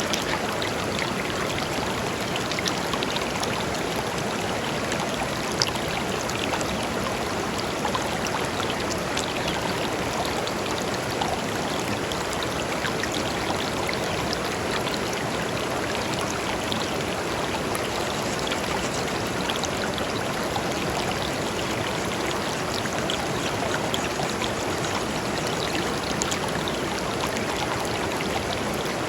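Shallow river flowing steadily over stones, an even rush of water with small splashes and droplet ticks scattered through it.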